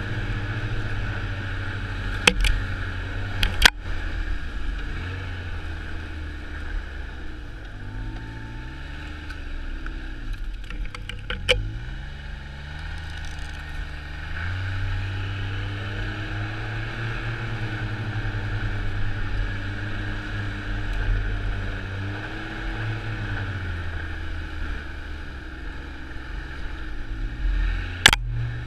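Snowmobile engine running under way, its pitch repeatedly rising and falling as the throttle changes, with a few sharp knocks.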